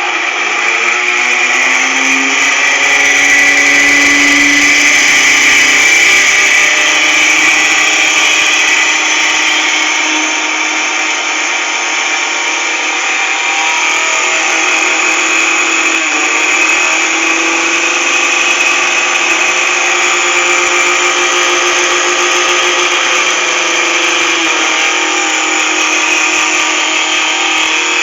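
1960s Arno Super blender's electric motor running continuously at speed, a steady high-pitched whine. It comes up to speed in the first second.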